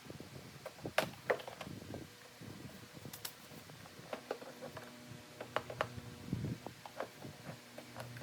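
Irregular light clicks and knocks from hand work on a car's HVAC assembly parts, sharpest about a second in, over a faint steady hum.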